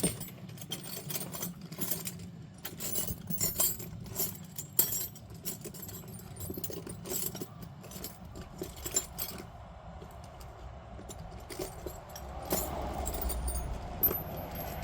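Metal sockets and hand tools clinking and rattling against each other as someone rummages through a toolbox, a quick run of clinks that thins out after about nine seconds. A low rumble comes in near the end.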